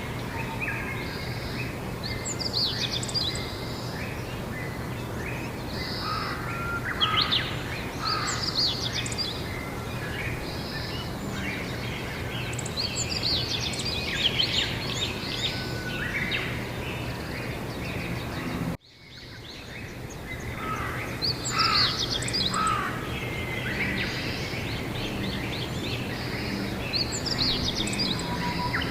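Several birds chirping and trilling in quick overlapping calls over a steady outdoor background hiss and a low steady hum. The sound cuts out abruptly about two-thirds of the way through and fades back in over the next couple of seconds.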